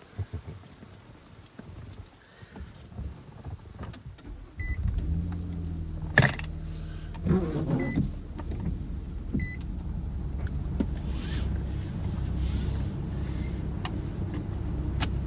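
A car being started from inside the cabin. First come small clicks and key sounds, then the engine catches about five seconds in and runs at a steady low idle. A sharp thump follows about a second later, and a short electronic beep sounds twice.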